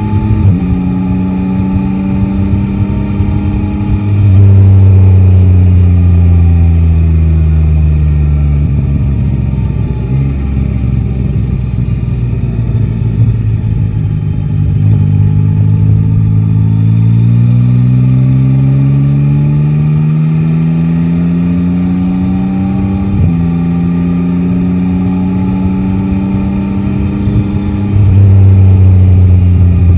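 Yamaha Tracer 9 GT motorcycle's 890 cc three-cylinder engine on the road: the engine note falls slowly as the rider rolls off, then climbs under acceleration, jumps sharply at a gear change about two-thirds of the way in, and falls away again. A deeper rumble swells a few seconds in and again near the end.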